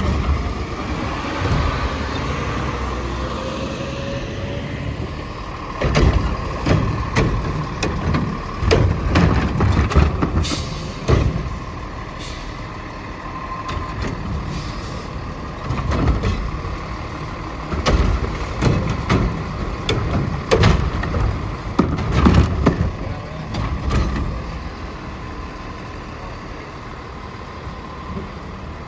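Autocar ACX garbage truck with a Heil Curotto-Can loader working: its diesel engine runs steadily, with a rising hydraulic whine near the start, then a long run of clanks and bangs and a brief hiss of air, before it settles back to running.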